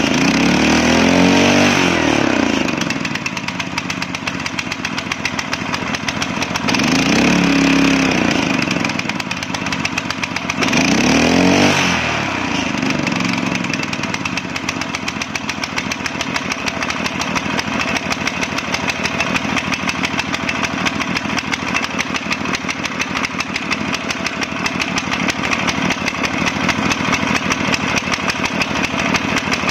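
Rotovator's small gasoline engine running, revved up and back down three times in the first twelve seconds or so, then settling to a steady fast idle.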